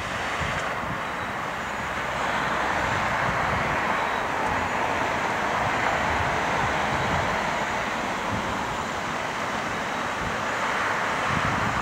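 Airliner jet engines passing, a steady rushing noise with a faint high whine, growing louder over the first couple of seconds and then holding.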